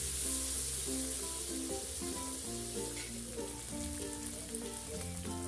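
Ground chilli-shallot spice paste with dried rebon shrimp sizzling in hot oil in a wok, over soft background music.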